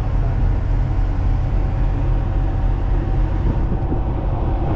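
Ship's diesel engine running steadily under low power as the vessel manoeuvres to berth: a continuous deep rumble with a faint hum above it.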